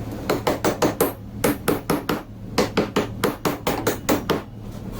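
Hammer tapping rapidly on a bolt, driving it through the drilled holes of a wood-and-steel-plate beam sandwich: about twenty quick strikes in three runs with short pauses between. The bolt is not going in easily.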